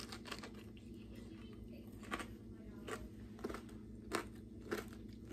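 Faint crunching of a person biting and chewing an air-fried breaded pickle, a handful of separate crisp crunches at irregular spacing as the crunchy breading breaks up.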